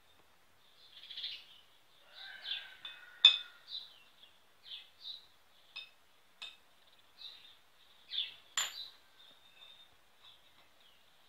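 Small birds chirping over and over, with four sharp metal clinks as steel plates, a bearing and washers are set down on a tile floor; the loudest clink comes about three seconds in.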